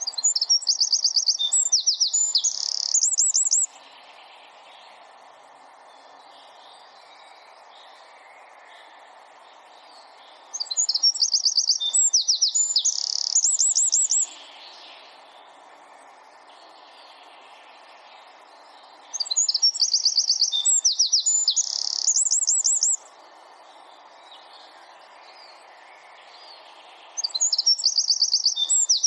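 A wren singing: four high-pitched song phrases of fast, densely repeated trilled notes, each lasting about three and a half seconds, coming roughly every eight seconds, with a faint steady hiss between them.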